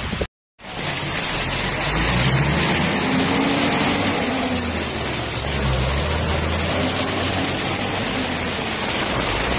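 Heavy rain pouring steadily onto a waterlogged street, with a car's engine and tyres passing through the standing water. The sound cuts out for a moment just after the start.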